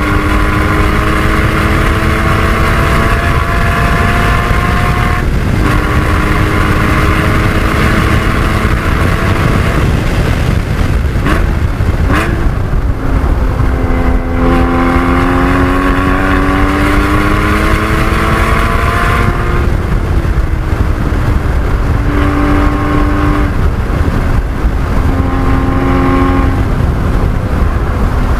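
A Porsche 981 Cayman GT4's naturally aspirated 3.8-litre flat-six at full throttle on track, rising in pitch through the gears with a drop at each upshift. Near the middle it goes off throttle for a few seconds, then accelerates again. Heavy wind and road roar runs under it throughout.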